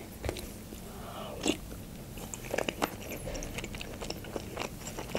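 Close-miked eating sounds of a person chewing meatball soup and soft bread from a spoon, with scattered small wet clicks and smacks.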